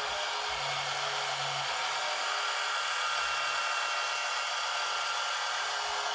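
Huina 1582 RC dump truck's electric tipper motor and gear drive whining steadily as it runs continuously, cycling the dump bed up and down.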